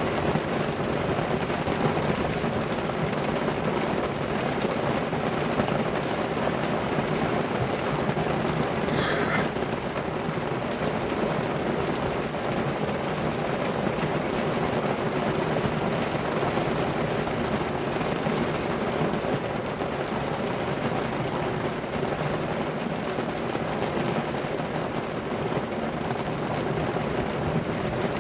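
Heavy rain pouring steadily in a storm, a constant dense hiss with no let-up. A brief high-pitched sound comes through about nine seconds in.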